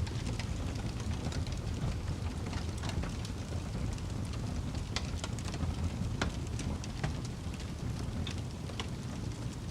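Wood fire burning in a fireplace: a steady low rumble of flames with irregular crackles and sharp pops from the burning wood.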